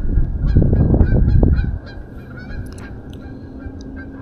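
Geese honking repeatedly, many short calls, over a faint steady high drone. A loud low rumble on the microphone covers the first couple of seconds.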